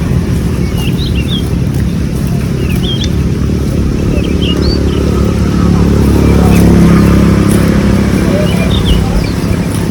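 A steady low engine rumble that grows louder about six to seven seconds in and then eases, with birds chirping in short high notes over it.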